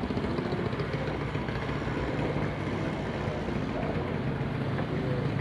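Small outboard motor running steadily at a constant speed, a rapid even firing pulse under a low hum.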